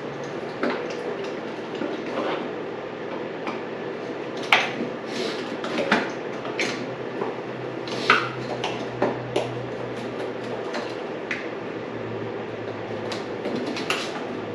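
Irregular clicks, clinks and knocks of a screwdriver working at plastic wiring connectors and clips on a dirt bike's subframe.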